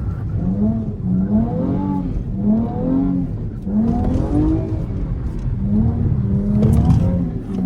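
Dodge V6 engine revving hard and easing off over and over, its pitch rising and falling about once a second, as the car drifts in figure-eights with its wheels spinning on wet pavement.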